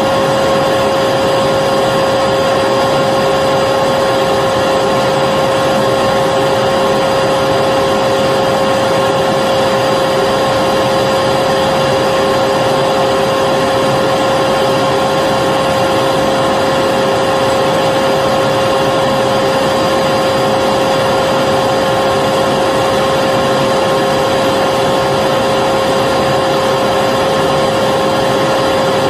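Vacuum cleaner running steadily, a constant rushing noise with a high motor whine, unchanging throughout.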